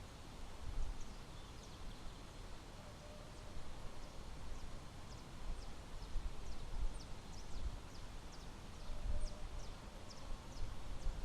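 Birds calling in forest, many short high chirps that sweep downward, over a low uneven rumbling.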